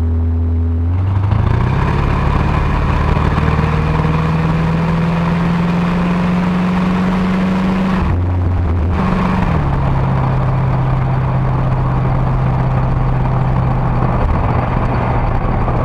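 1977 Ford Ranchero's 351 Windsor V8 pulling under acceleration, its note climbing steadily for several seconds. About eight seconds in the pitch drops sharply, as the FMX three-speed automatic would upshift, and the engine settles into a lower, steady note.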